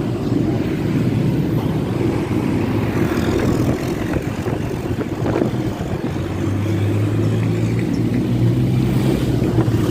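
Bus engine running with road traffic: a steady low drone that swells about two-thirds of the way through.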